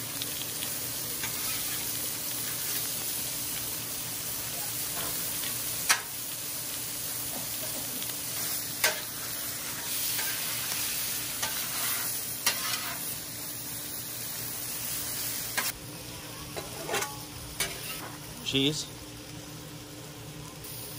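Trout chunks sizzling in butter on a Blackstone steel flat-top griddle, with a metal spatula scraping the plate and striking it with sharp clicks now and then. About three-quarters of the way through the sizzle drops, and a few softer knocks follow.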